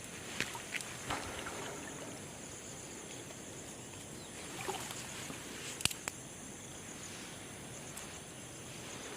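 Steady outdoor background by water, with a high steady hiss in it and a few scattered sharp knocks, the loudest about six seconds in.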